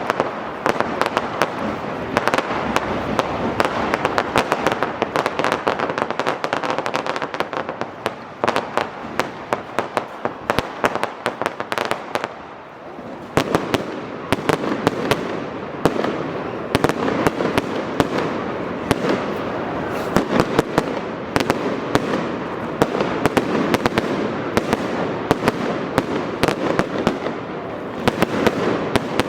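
Fireworks display: a dense, continuous run of bangs and crackling reports, many each second, with a short lull about twelve seconds in before the barrage picks up again.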